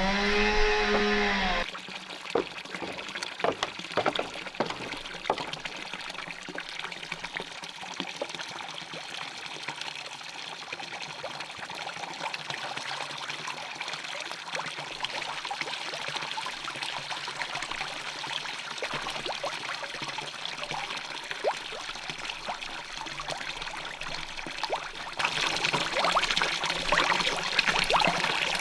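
Water pouring and trickling steadily, with scattered light clicks and splashes, getting louder about 25 seconds in. A brief rising call is heard at the very start.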